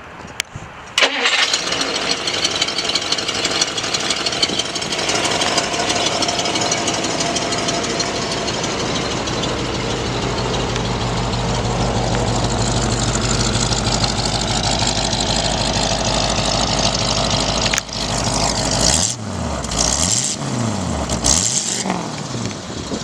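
1956 Dodge Coronet's V8 engine cranked and started about a second in, then running steadily. Near the end it is revved up and down a few times.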